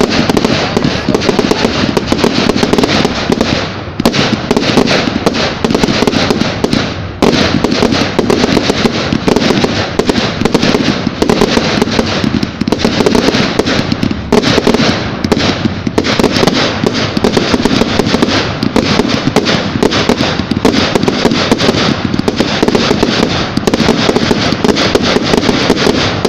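Fireworks going off in a fast, continuous barrage of crackling bangs, easing briefly a few times.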